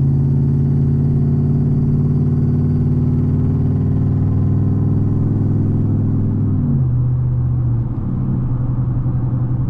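The V8 exhaust of a 2013 Roush F-150 with its catalytic converters removed, heard inside the cab under normal acceleration. The engine note holds and climbs slightly, then drops in pitch about two-thirds of the way through as the six-speed automatic shifts up.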